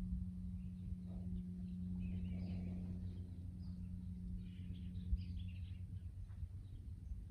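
Small birds chirping on and off over a steady low hum and rumble; the hum fades out about six seconds in.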